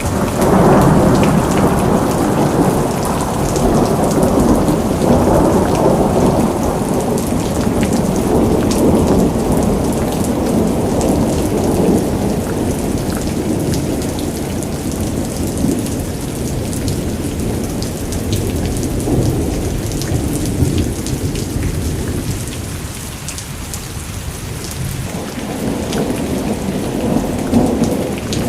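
Heavy rain falling, with thunder rumbling on and on beneath it. The thunder eases about two-thirds of the way through and then swells again near the end.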